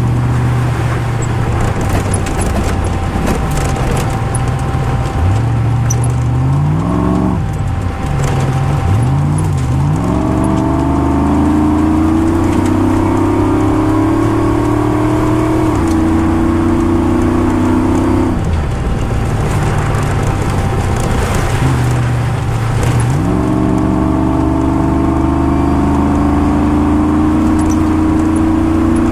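Rally car engine heard from inside the cabin under hard driving. It climbs in pitch in short runs a few seconds in, holds at high revs, drops back twice past the middle, then climbs again near the end.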